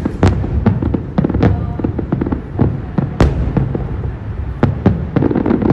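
Aerial fireworks show, shells bursting in quick succession: a dense run of booms and crackles over a low rumble, with sharper reports standing out about a quarter second in and again about three seconds in.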